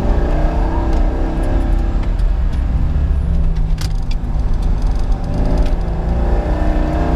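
A 2003 C5 Corvette Z06's modified LS6 V8 running hard, heard from inside the cabin, its engine note rising under acceleration near the start and again near the end. A single sharp click sounds a little under four seconds in.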